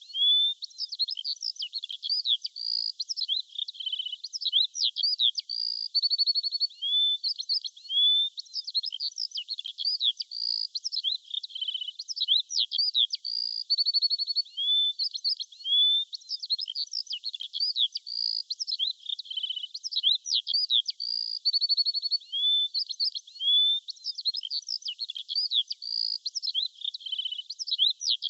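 Songbirds chirping and trilling, a dense run of short high calls, quick rising and falling notes and rapid trills with no other sound beneath them. The same short passage of birdsong repeats about every eight seconds, as a looped recording.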